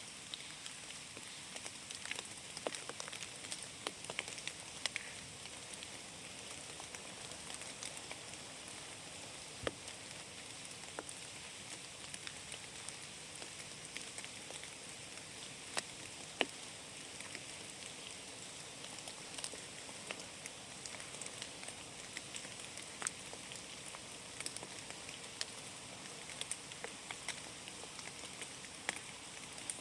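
Rain falling in a forest, a steady hiss with many separate drops ticking sharply at irregular moments as they hit leaves and the ground.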